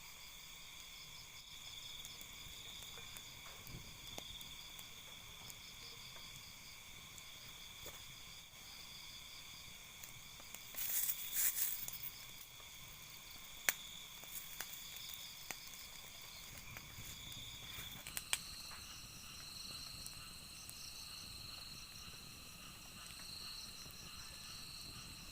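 A night insect chorus: steady, high-pitched trilling in several pitches at once, the pitch pattern changing about two-thirds of the way through. A short loud hissing burst comes about eleven seconds in, and sharp clicks occur here and there.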